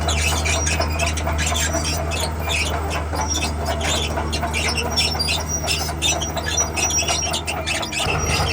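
Diesel engine of a tracked machine (bulldozer or excavator) running steadily, with squealing and clanking from its steel tracks. The engine drone dips briefly near the end, then carries on.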